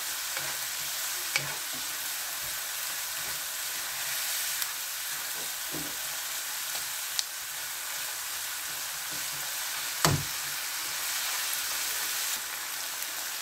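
Onion, tomato and spice masala frying in oil in a non-stick pan, with a steady sizzle while a slotted spatula stirs and scrapes it. A few sharp clicks of the spatula against the pan, the loudest about ten seconds in.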